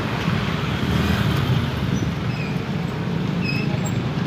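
KRL electric commuter train running along the track, a steady low rumble.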